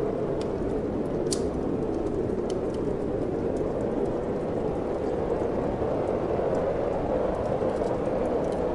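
Steady rushing wind with a wood fire crackling over it: scattered small, sharp pops, one louder snap about a second in.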